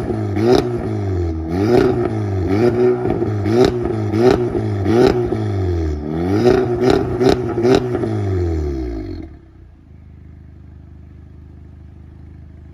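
Audi TT with an aftermarket valved exhaust revved in a run of quick throttle blips, the pitch rising and falling each time, with sharp pops and crackles between the blips. At about nine seconds the revs drop and it settles to a much quieter, steady idle.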